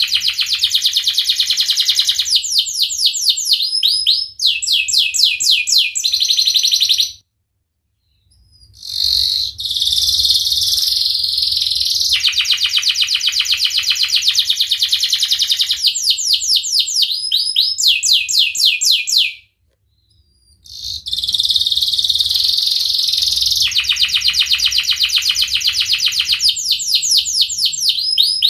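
Domestic canary singing long rolling trills: fast runs of rapidly repeated high notes that change speed and pitch from phrase to phrase, with two short full breaks about 7 and 19 seconds in.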